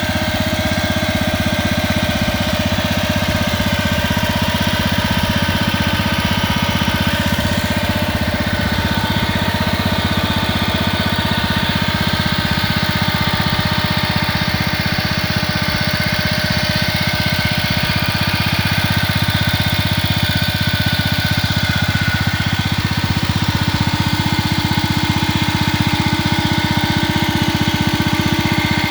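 1947 Gibson Model D tractor's engine running steadily at an even speed as the tractor drives along.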